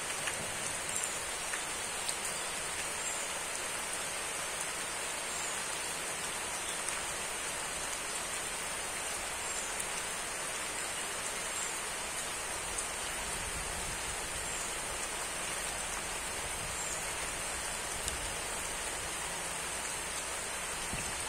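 Steady rain falling, an even hiss with occasional slightly louder drops.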